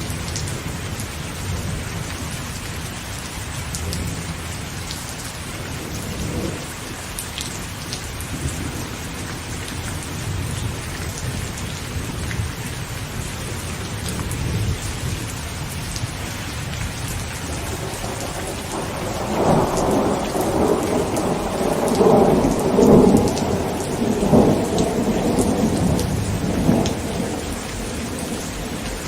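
Heavy rain falling steadily on a tent, with a long roll of thunder that builds about two-thirds of the way in, is loudest shortly after, and dies away before the end.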